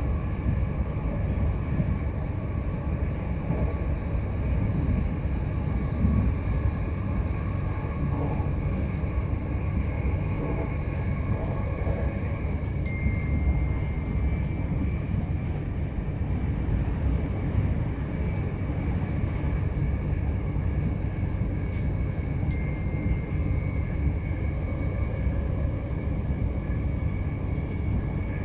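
c2c Class 357 electric multiple-unit train running steadily along the line: a continuous low rumble of wheels and running gear with a steady whine from the traction equipment. Two brief clicks, each with a short high tone, sound about ten seconds apart.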